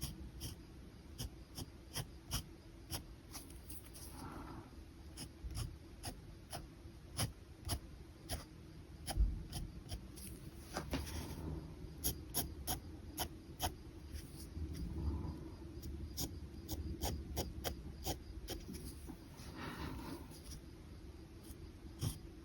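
Pen nib scratching on paper in short, quick sketching strokes, a stroke or two a second, with a few longer scratching strokes in between.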